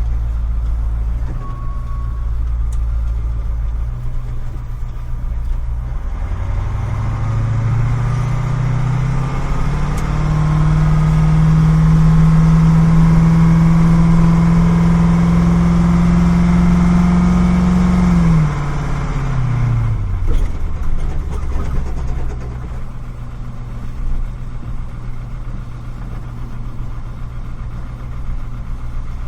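Truck engine idling, then revved up to a higher steady speed and held there for about ten seconds before dropping back to idle.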